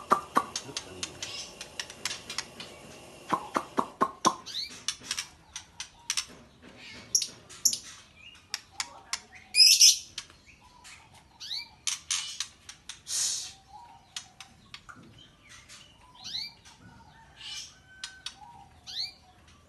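Young white-rumped shama chirping: a rapid, irregular series of short rising chirps and clicks, with a few louder harsh calls about ten and thirteen seconds in.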